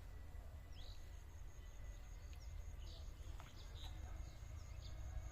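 Rural outdoor ambience: birds chirping here and there, and a high, even insect trill that starts about a second in, over a steady low rumble.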